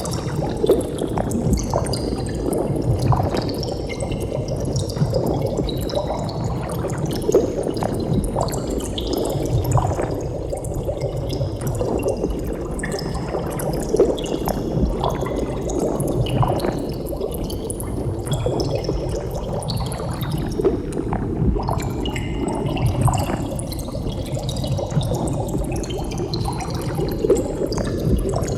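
Steady underwater bubbling: a continuous stream of bubbles gurgling, with many small pops and blips scattered through it.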